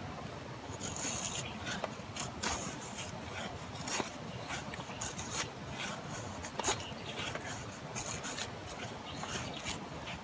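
A string of short, irregular scraping and rubbing strokes with a few clicks, over a steady background hiss.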